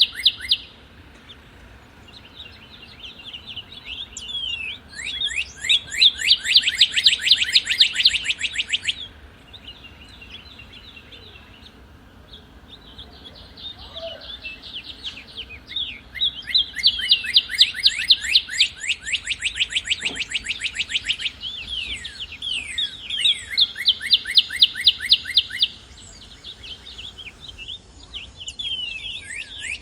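Northern cardinal singing: several phrases of fast, repeated down-slurred whistled notes, each phrase lasting a few seconds, with short pauses between them.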